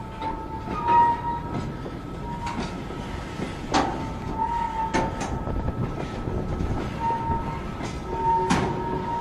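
Railway tank cars of a freight train rolling past close by: steady wheel rumble with irregular sharp clanks, and a thin squeal from the wheels that comes and goes.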